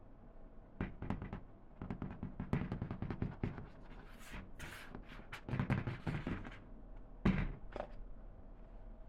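A string of soft knocks and thumps mixed with brief rustling, irregular, with the loudest thump about seven seconds in.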